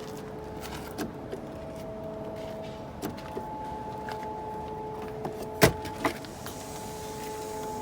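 Steady hum inside a moving car's cabin, with a few light clicks and one sharp knock a little over halfway through.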